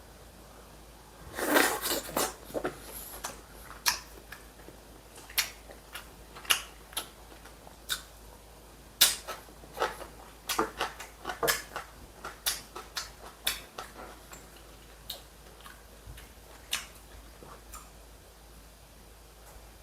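Eating at a table: chopsticks and tableware clicking and knocking against dishes in an irregular run of sharp clicks, busiest in the first half and thinning out near the end.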